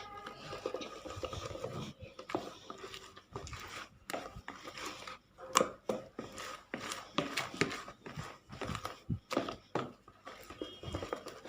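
Cake batter being mixed by hand in a bowl: a run of irregular wet scraping and tapping strokes against the bowl as the freshly added baking powder is worked in.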